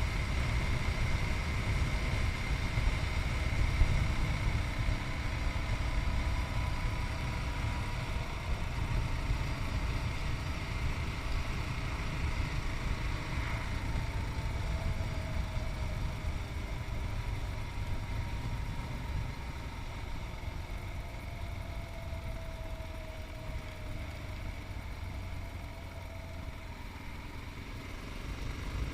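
Yamaha MT-03's 660 cc single-cylinder engine running on the road, heard over deep wind rumble on the chest-mounted microphone; the engine note falls slowly as the bike eases off.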